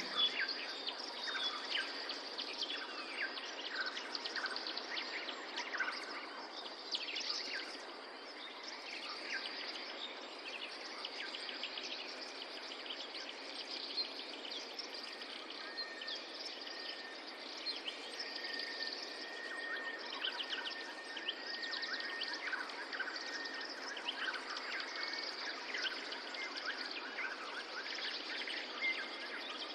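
Outdoor birdsong ambience: many small birds chirping and twittering over a steady background hiss. A thin, steady tone holds for several seconds around the middle.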